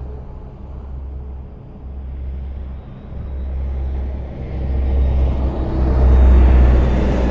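Highway traffic: a steady low rumble of engines and tyre noise on the road. One vehicle grows louder through the second half, loudest about six seconds in, as it passes close by.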